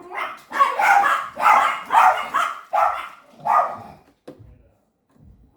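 A dog barking repeatedly, a run of barks about half a second apart that stops about four seconds in.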